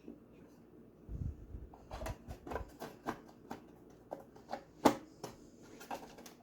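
Light knocks and clicks of small wooden birdhouse pieces being handled and pressed together on a table, with a few dull low bumps a second or two in and the sharpest knock about five seconds in.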